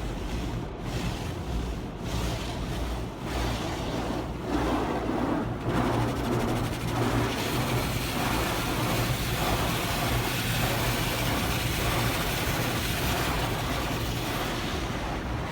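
Automatic car wash heard from inside the car: a steady low machinery hum with water spray and brushes hissing against the body, the hiss growing louder about seven seconds in.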